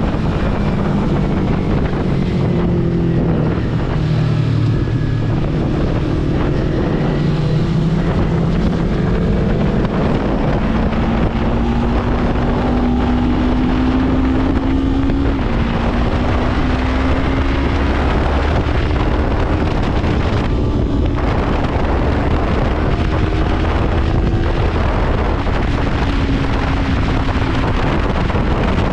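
Sport motorcycle engine running at speed, its pitch climbing under throttle and dropping back several times as it shifts and lifts off, under heavy wind noise on the microphone.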